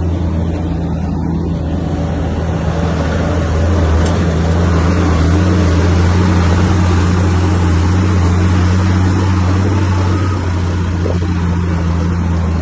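Bulldozer's diesel engine running steadily with a deep hum, working harder and louder for several seconds in the middle as it pushes, then easing back near the end.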